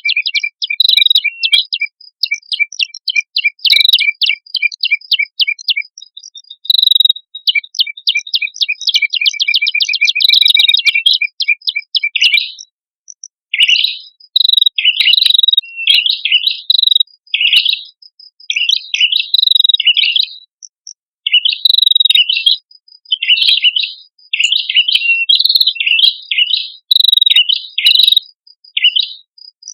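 Male and female prenjak kepala merah calling without pause: fast, loud, high chirping trills for the first dozen seconds, then quicker broken phrases of varied chirps with short gaps.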